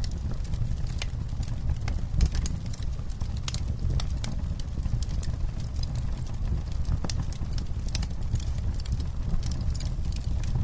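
Campfire crackling: wood popping in frequent, irregular sharp snaps, over a steady low rumble.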